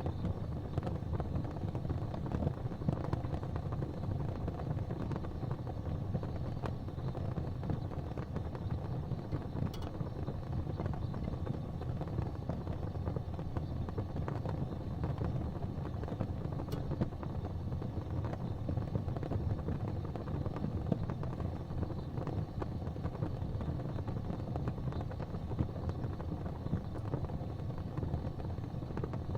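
Gas fireplace flames burning with a steady low rumble, broken by a few faint ticks.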